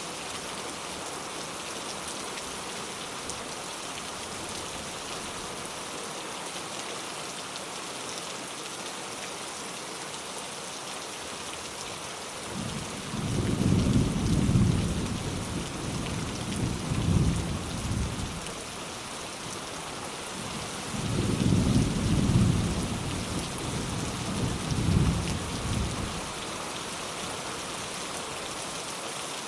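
Steady rain falling, with two rolls of distant thunder: the first rumbles in a little under halfway through and lasts about five seconds, the second follows a few seconds after it and dies away about four seconds before the end.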